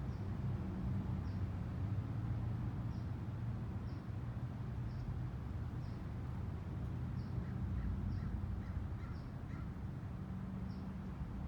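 Birds calling: a short high chirp repeats about once a second, and a quick series of lower calls comes about eight seconds in, over a steady low rumble.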